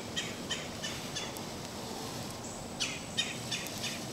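A bird chirping in two quick runs of four or five short, high notes, over steady background noise.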